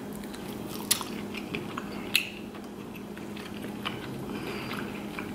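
Close-miked chewing of soft, buttery lobster meat, with a few sharp wet clicks, the clearest about one and two seconds in.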